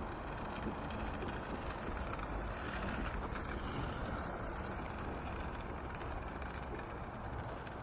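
Small battery-powered RC drift car driving on the ground: a steady running noise from its electric motor and tyres.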